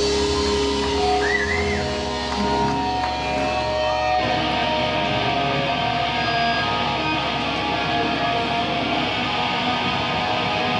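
Live electric guitar playing held, ringing notes, with a couple of notes bending in pitch near the start; about four seconds in the sound thickens into a denser, more distorted wash.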